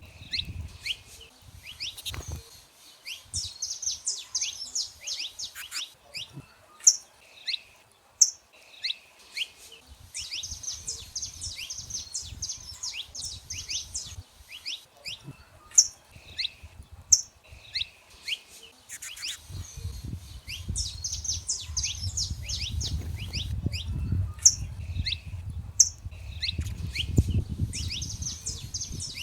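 Saffron finches singing: repeated phrases of rapid high chirps, broken by loud, sharp single notes every few seconds. A low rumble joins about two-thirds of the way through.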